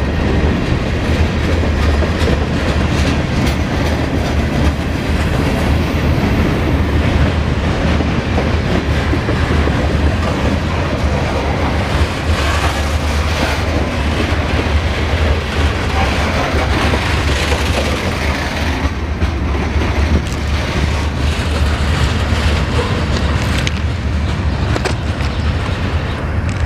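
Norfolk Southern local freight train rolling past on the rails, a loud, steady low rumble of its wheels that does not let up.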